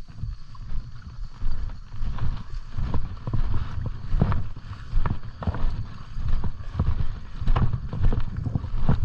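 Footsteps moving through brush and ground cover: an uneven run of crunches, snaps and low thuds.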